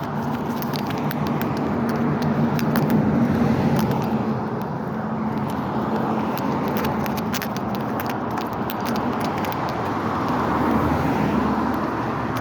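Road traffic: cars driving past, the engine and tyre noise swelling as vehicles go by, about three seconds in and again near the end.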